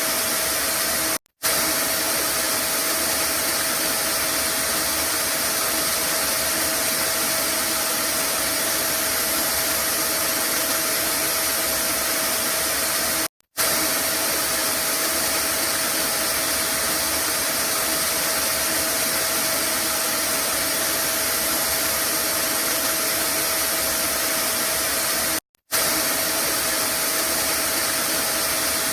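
Vacuum cleaner running steadily as white noise: a continuous whooshing rush with a faint steady whine. The sound cuts out for a split second three times, about every twelve seconds.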